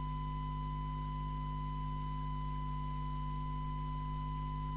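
Steady, unbroken test tone from the Mustang CB3000 CB radio's receiver, the test set's modulation tone being demodulated during alignment, over a low mains-like hum. The tone is slightly harsh, which the technician puts down to the FM detector being out of alignment.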